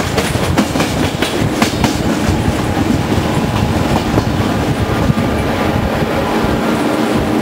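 Passenger train running along the line, heard from an open carriage window: wheels clicking sharply over rail joints and points, most densely in the first two seconds, over a steady rolling noise with a low hum.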